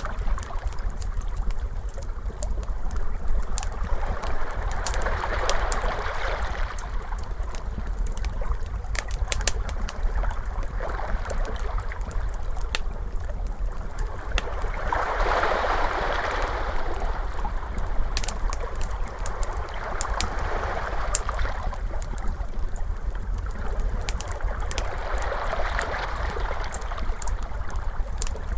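Wood fire crackling with sharp irregular pops, over ocean waves washing in and out in slow swells about every five seconds.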